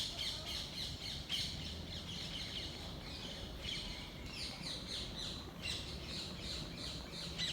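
Several small birds chirping in woodland, a steady stream of quick high notes, each falling in pitch, overlapping one another.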